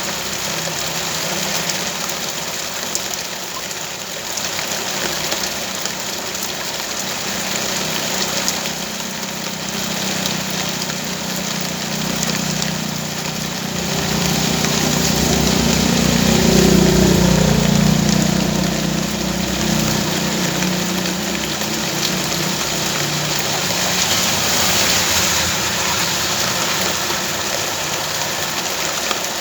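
Rain falling steadily, with a vehicle engine running at idle underneath; the engine grows louder for a few seconds in the middle, then settles back.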